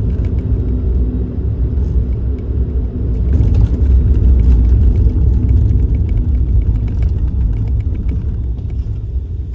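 Suzuki Kei Works car driving: a steady low rumble of engine and road noise that grows louder a few seconds in and then eases off toward the end.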